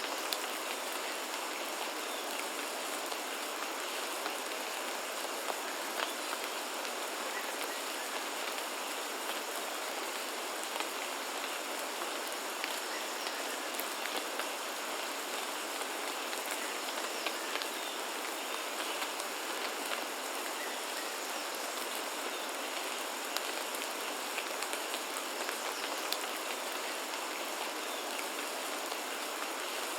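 Steady rain falling in a rainforest, many individual drops striking surfaces, with a steady high thin tone behind it.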